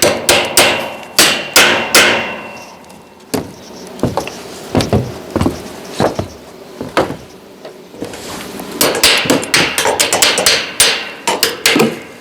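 Hammer blows on steel, sharp metallic strikes with a ringing tone. A quick run of blows in the first two seconds, then slower scattered strikes, then another quick run about nine to eleven seconds in.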